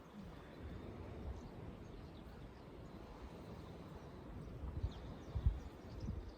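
Quiet outdoor ambience with faint bird chirps and a low rumble on the microphone that swells into a few louder low thumps near the end.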